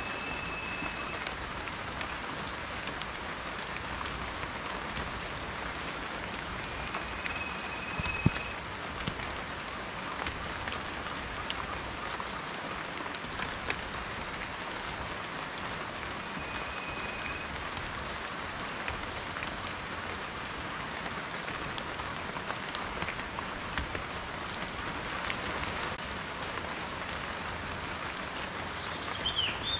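Steady rain falling, with a constant hiss and many individual drops ticking on a surface, one sharper tick about eight seconds in. A few short, thin high notes sound faintly three times through it, and a brief chirp comes near the end.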